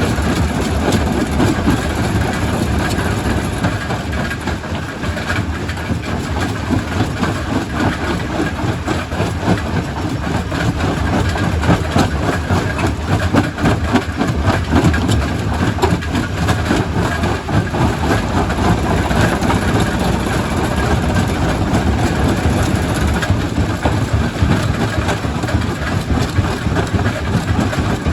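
Quarry primary rock crusher running under load: a steady heavy machine drone with a dense, continuous clatter of rock being broken and knocking through the crusher.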